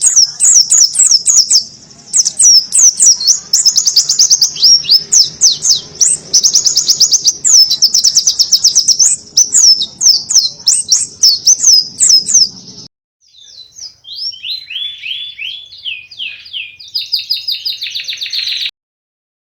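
Pleci (white-eye) singing a loud, fast stream of high twittering, rapid falling notes in canary-style phrases. After a brief break at about 13 s a lower, slightly quieter run of notes follows, which cuts off suddenly shortly before the end.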